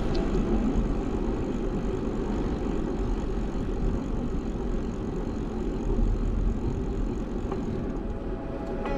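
Steady wind and road noise picked up by a bicycle-mounted GoPro while riding, a continuous low rush with no clear breaks.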